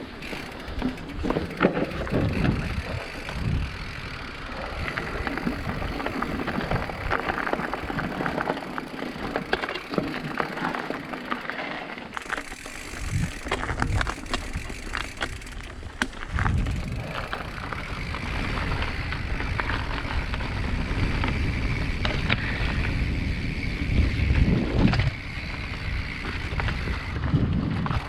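Mountain bike rolling over rough trail ground, with continuous rattling and many short knocks and clicks over a low rumble.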